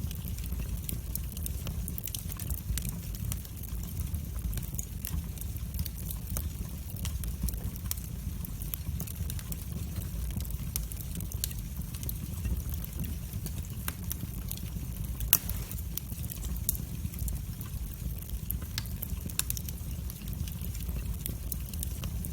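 Wood fire burning in a fireplace: frequent sharp crackles and pops over a low, steady rumble of the flames, with one louder pop about fifteen seconds in.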